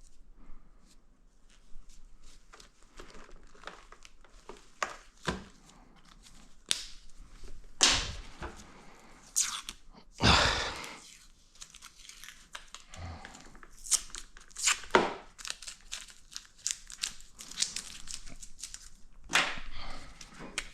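Hands working with material that makes tearing and crinkling sounds, in irregular bursts. The loudest tears come about eight and ten seconds in, and more follow near the end.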